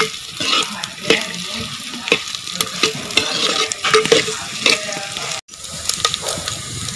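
Chopped onion, dried red chillies and coconut pieces sizzling in hot oil in a clay pot, stirred with a metal spoon that scrapes and clicks against the pot. The sound briefly cuts out about five and a half seconds in.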